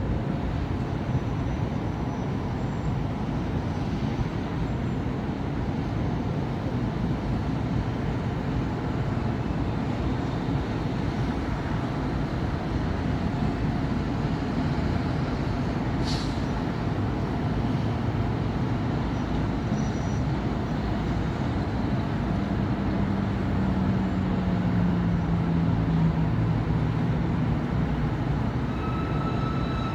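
Continuous city avenue traffic, with cars, buses and trucks running past in a steady rumble. About two-thirds of the way through a low hum rises above the traffic and sinks slightly in pitch. There is a brief high squeak about halfway, and a thin high tone sets in just before the end.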